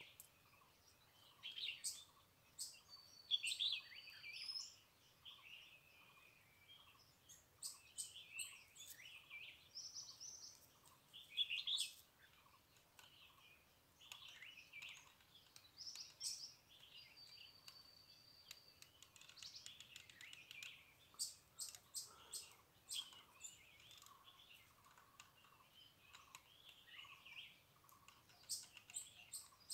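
Small birds chirping and calling: many short, sharp chirps throughout, and twice a thin high whistle held for a second or two.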